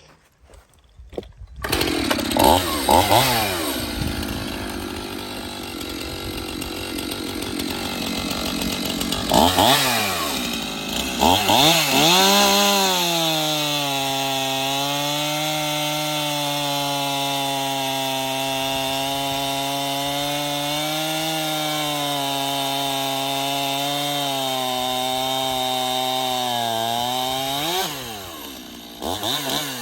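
Echo CS-6700 two-stroke chainsaw starting up and revving a few times, then running at a steady high speed for about fifteen seconds before dropping back near the end.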